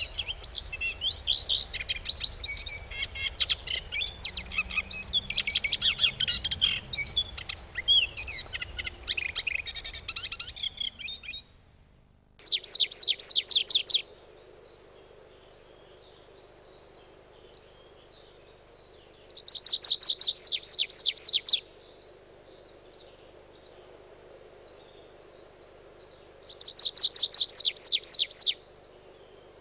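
Birdsong: a busy chorus of many chirping birds cuts off abruptly about twelve seconds in. After that, one bird's rapid trill of quick repeated notes sounds three times, about seven seconds apart, with faint twittering between.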